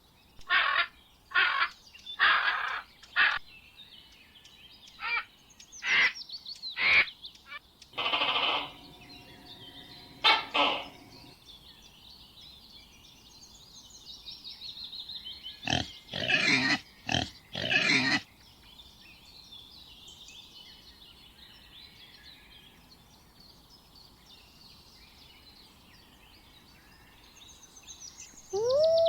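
A series of short, loud animal calls, about a dozen in quick succession followed by a few more after a pause, with birds chirping faintly in between.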